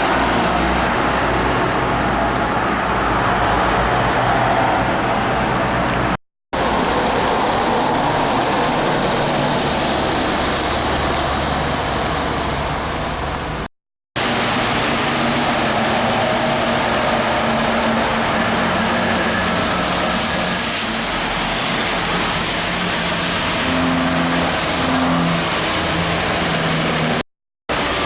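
Expressway traffic of trucks and cars passing in the rain, a steady rush of tyres on the wet road with truck engines running underneath. Three short dropouts break it where the clips are joined.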